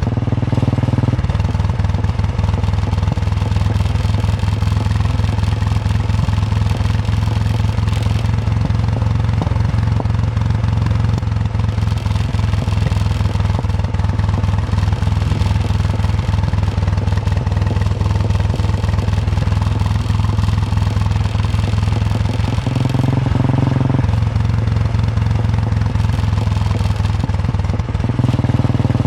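Royal Enfield Bullet 350 single-cylinder engine thumping under way on the road. The engine note shifts a few times: about a second in, near the two-thirds mark, and again near the end.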